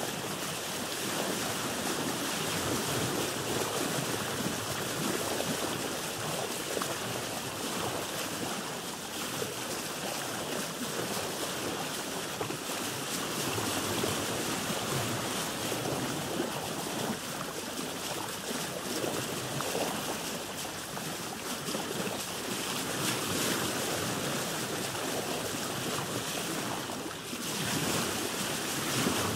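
Ocean waves washing around a boat at sea, a steady rushing wash that swells and eases slightly.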